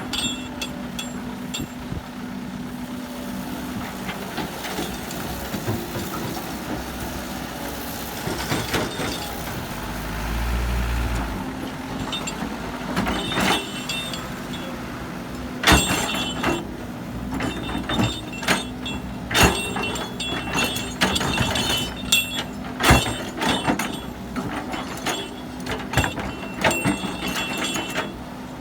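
Heavy diesel machinery running steadily, with a brief deep rumble about ten seconds in, then repeated sharp metallic clanks and knocks.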